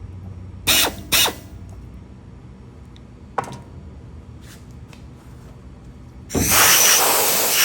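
Compressed-air blow gun blowing chips off a machined part: two short blasts about a second in, a click, then a longer blast starting near the end.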